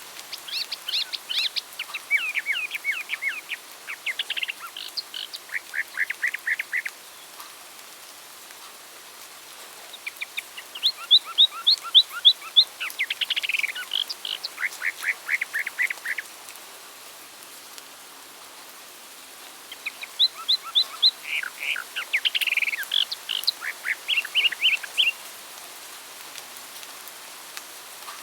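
Songbird singing three long songs of rapid trills and chirps, each about six seconds long, with pauses of a few seconds between them, over a steady background hiss.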